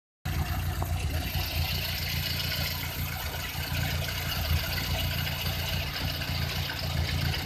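Lada VAZ-2113 engine running with a loud metallic knock; the cylinder head has been machined and fitted with T-shaped valves.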